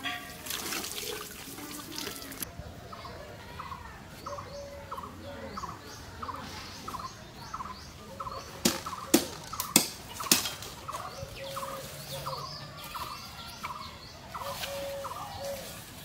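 Water splashing for the first couple of seconds. Then a bird calls over and over, one short note a little under twice a second. About halfway through, four sharp chops come in quick succession from a blade hacking at a bamboo stem.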